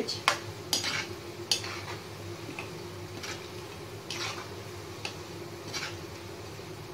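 Small gram-flour (besan) boondi deep-frying in hot oil in a wok with a steady sizzle, stirred with a metal slotted skimmer that scrapes and knocks against the pan about six times. A steady low hum runs underneath.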